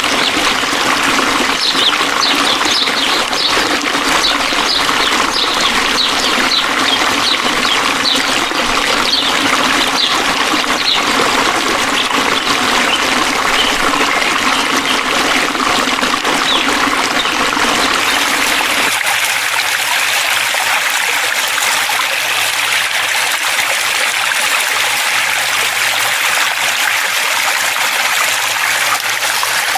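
A forest stream trickling and flowing steadily, with a run of short high chirps during the first ten seconds or so. About two-thirds of the way through, the deeper part of the sound drops out suddenly.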